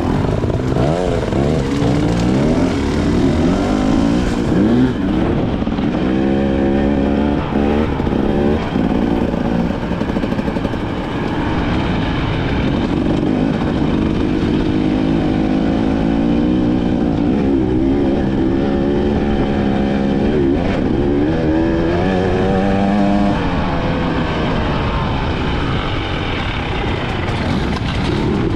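KTM 300 XC-W two-stroke dirt bike engine under way, its pitch repeatedly climbing and dropping as the throttle is opened and closed.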